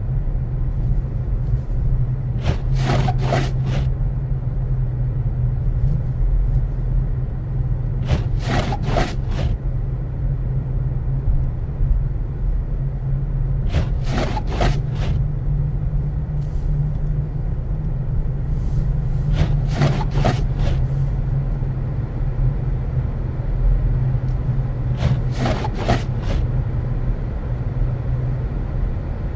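Car cabin sound while driving: a steady low engine and road rumble, with the windshield wipers sweeping on an intermittent setting about every five and a half seconds, each sweep a short chattering rub of the blades across the glass.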